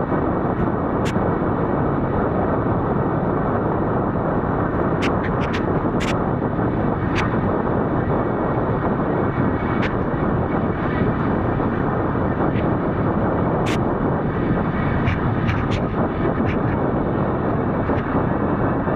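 A steady rushing rumble of wind and motion on a moving camera, with scattered sharp clicks and knocks.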